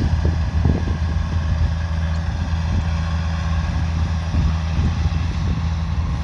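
Kubota DC105X combine harvester running steadily under load: a constant engine and machinery drone, with wind buffeting the microphone in irregular low rumbles.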